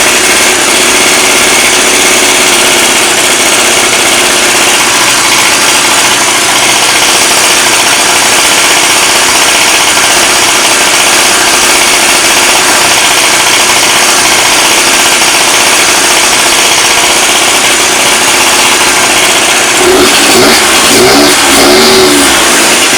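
Honda Dio ZX scooter's 50 cc two-stroke engine running steadily after a new cylinder and reed valve were fitted. Its revs rise and fall a few times near the end.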